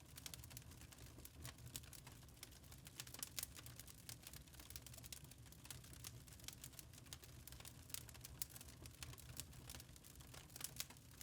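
Wood fire burning in a fireplace, crackling faintly with many small irregular pops over a low steady rumble.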